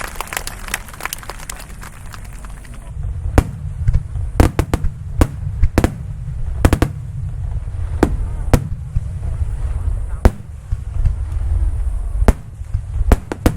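Aerial fireworks shells bursting: sharp bangs at irregular intervals over a continuous deep rumble, which sets in about three seconds in after a stretch of rapid clicks.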